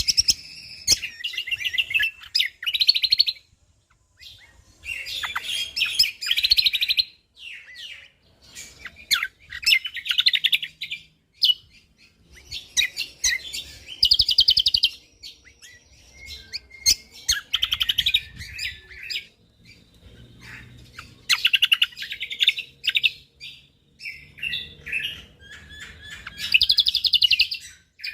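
Cucak kombo (kecial kombok) singing in bursts of rapid, dense chattering phrases, each lasting a second or two, repeated every few seconds with short pauses between.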